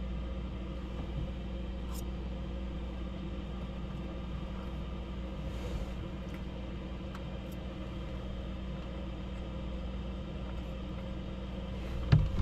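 A steady low mechanical rumble with a constant hum from a running motor. A short loud knock comes near the end.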